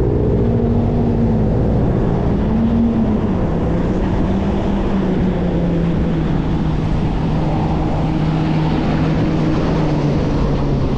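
Street traffic heard from a moving bicycle: a motor vehicle's engine hum sinks slowly in pitch under a steady rush of wind on the microphone.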